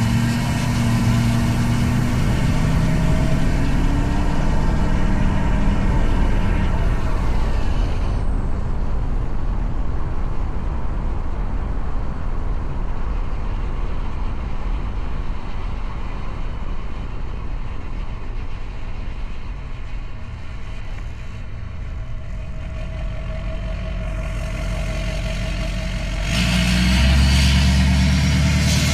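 Straight-piped Duramax 6.6-litre turbodiesel V8 running through an open exhaust while driving. The engine note is loud for the first several seconds, drops to a quieter, duller low drone for most of the stretch, and comes back loud and deep again near the end.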